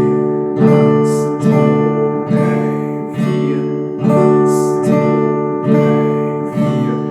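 Acoustic guitar chords sounded slowly with the thumb, one even downstroke about every second, each left ringing into the next. The chord changes about every four strokes, a slow beginner's chord-change exercise.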